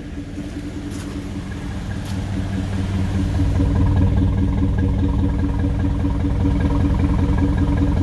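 Truck engine with a freshly swapped camshaft running at idle, heard from its stock exhaust and muffler. The low exhaust rumble grows louder over the first four seconds, then holds steady.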